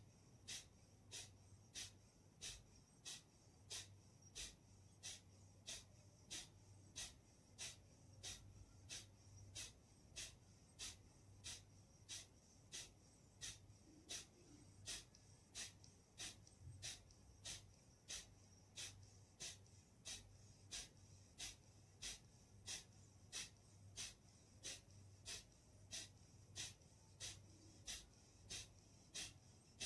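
Kapalbhati breathing: faint, short, forceful exhalations through the nose in a steady rhythm, about one and a half a second.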